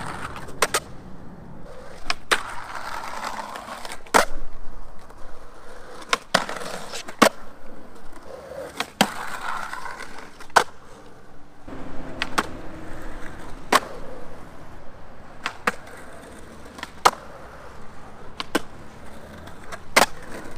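Skateboard on Avenue suspension trucks rolling on pavement, with sharp clacks every second or two over the wheel noise.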